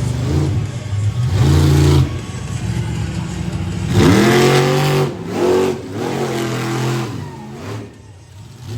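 Monster truck engine revving hard in repeated bursts, its pitch sweeping sharply up and falling back several times, loudest about four seconds in, then easing off near the end.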